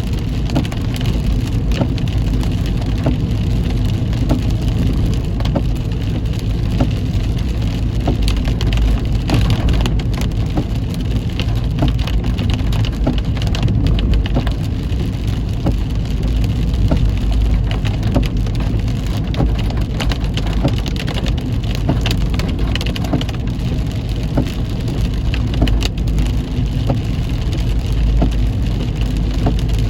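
Heavy rain pattering on a moving car, many fine drop hits over a steady low road-and-engine rumble.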